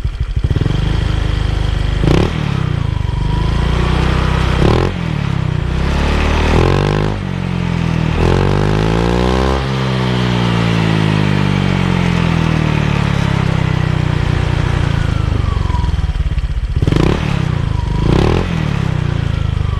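Honda Vario scooter's single-cylinder engine idling through a Rob1 aftermarket racing exhaust, blipped a few times. A longer rev about halfway through climbs and then falls back to idle.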